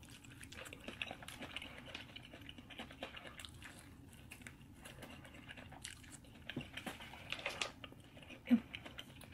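Close-miked eating sounds: soft wet chewing and smacking clicks of a person chewing a sauce-coated bite of fried chicken, a little louder towards the end, with a brief low sound near the end.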